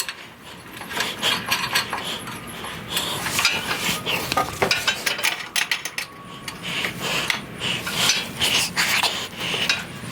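Repeated metallic clinks, knocks and scraping as the engine is pulled out of the car, with the engine, its lifting gear and the parts around it shifting and rubbing against one another.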